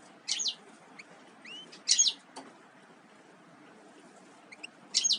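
Small songbird chirping: short, high, sharply falling calls in clusters about a third of a second in, about two seconds in and near the end, with a soft rising whistle note just before the middle cluster.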